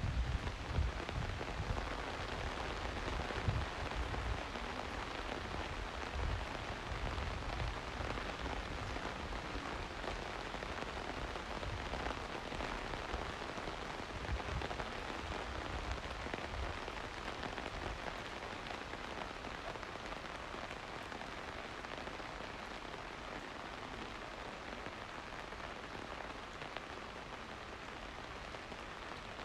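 Steady rain falling, an even hiss throughout, with some low rumbling bumps during the first half.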